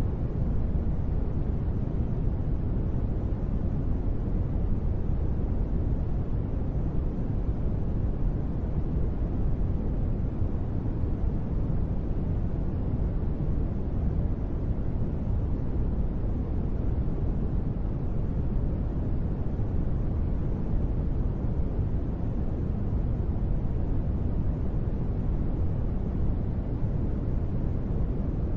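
Steady, deep noise track of the kind sold as rain white noise for sleep: an even rumble heavy in the bass with little hiss above and no separate drops or pattering.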